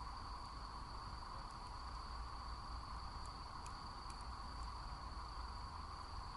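Crickets trilling steadily at a high pitch over a low steady rumble, with a few faint crackles from the campfire around the middle.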